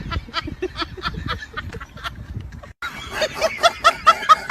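An animal's short calls repeated quickly, about four or five a second, broken by a cut a little under three seconds in; after the cut the calls are higher-pitched and louder.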